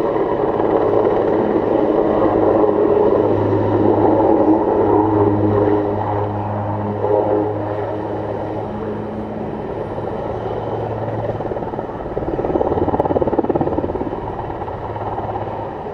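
Airbus Helicopters H215 Super Puma twin-engine helicopter in flight: a steady rotor and turbine drone with a low hum, strongest in the first few seconds, easing off, then swelling again shortly before the end.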